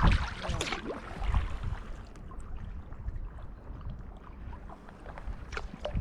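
Kayak paddle strokes dipping and splashing in the water, with low wind rumble on the microphone.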